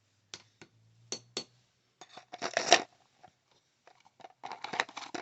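Plastic drill-bit storage case being handled: two pairs of sharp clicks like lid catches snapping, then a louder clattering scrape about two seconds in, and scattered light handling noises after.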